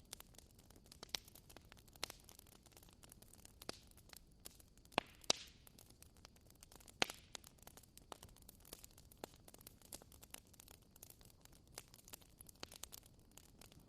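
Wood fire crackling: irregular sharp pops and snaps from burning wood, a couple of louder pops about five and seven seconds in, over a faint steady hiss.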